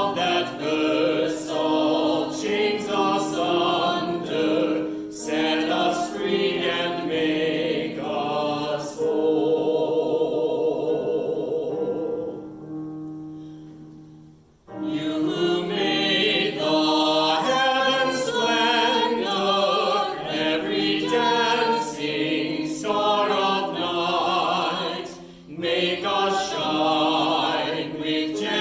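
Choir singing a hymn in a run of phrases. About fourteen seconds in, one phrase fades away, and the singing starts again a moment later.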